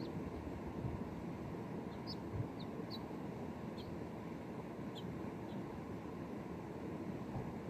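Steady low rumbling noise with no clear engine note, and about eight short, faint high chirps like small birds calling.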